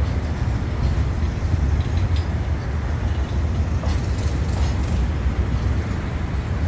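Hitachi diesel locomotive hauling five bogie flat wagons slowly over a railway bridge: a steady low rumble with a few faint clicks.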